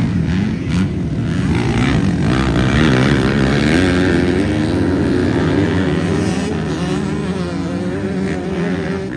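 Motocross bike engines revving, their pitch rising and falling repeatedly as the throttle opens and closes.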